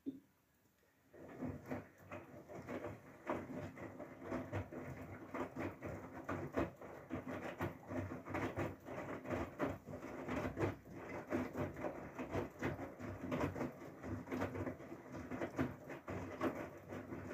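Whirlpool FSCR90425 front-loading washing machine starting its Synthetics 40°C wash. After a click at the start, an irregular pattering and sloshing of water and laundry in the drum begins about a second in and keeps going, over a low steady hum.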